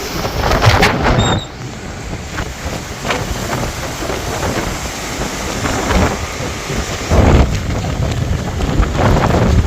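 Strong gusting cyclone wind buffeting the microphone in loud surges over a continuous rushing noise.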